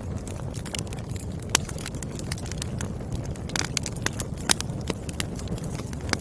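Firewood burning and crackling, with many sharp pops over a steady low rumble; the loudest pops come about a second and a half in and again past four seconds.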